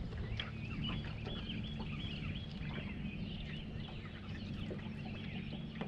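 Birds chirping and calling continuously in many short notes, over a steady low hum.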